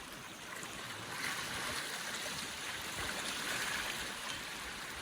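Steady rushing hiss of running water, a little louder from about a second in.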